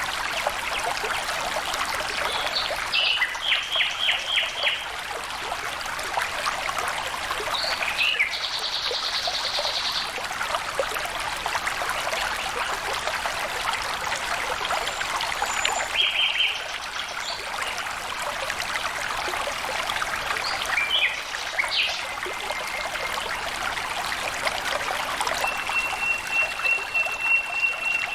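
Flowing stream water trickling and splashing steadily, with birds calling over it now and then: a run of short repeated notes, a quick high trill, and near the end a long, even high trill.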